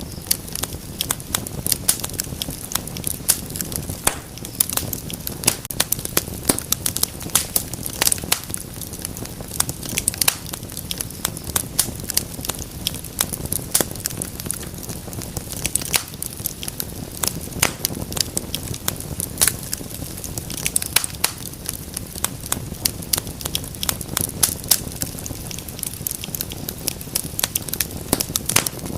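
Wood fire crackling steadily in a fireplace, with frequent sharp pops and snaps over a low rumble of flames.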